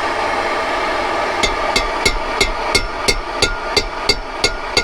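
A hammer lightly tapping a cold chisel wedged between the aluminium cooling fins of a Suzuki T500 cylinder, in even, ringing taps about three a second, starting about a second and a half in. The chisel is easing a bent, heated fin back out a fraction at a time. A steady hiss from the heat being kept on the fin runs underneath.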